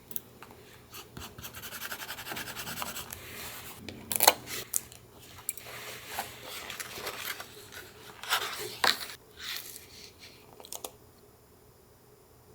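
Paper-crafting sounds: paper rubbed and scraped against paper, with irregular sharper crackles, the loudest about four seconds in and again around nine seconds, before it goes quiet near the end.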